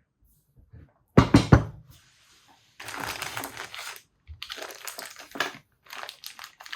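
A few sharp knocks of parts being put down, then plastic packaging crinkling in three bursts as the parts of a swingarm bearing kit are handled.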